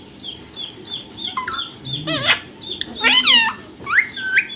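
Indian ringneck parrot calling: a steady run of short chirps, about three a second, broken by a few louder squawks that swoop up and down in pitch.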